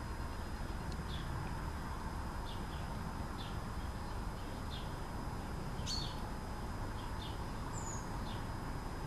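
Small birds chirping: short high chirps about once a second, with one longer call partway through and a brief higher whistle near the end, over a steady low rumble.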